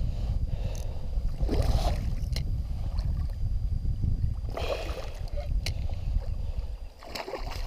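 Low wind rumble on the microphone, with three short bursts of water splashing about a second and a half, four and a half and seven seconds in, as a hooked pike is played beside a small boat.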